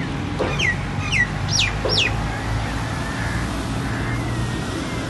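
A bird calling four short notes in quick succession, each sliding down in pitch, over a steady low background hum.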